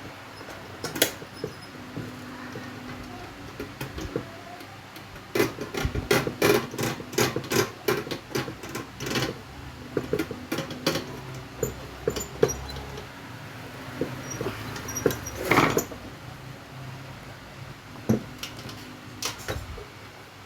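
Irregular clicks and knocks, coming thick and fast about five to nine seconds in and again with a louder knock near sixteen seconds, over a low steady hum.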